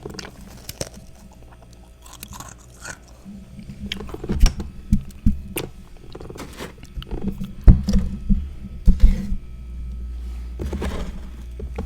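Close-up chewing and crunching of freezer frost: irregular crackling bites that come thickest and loudest through the middle, over a faint low hum.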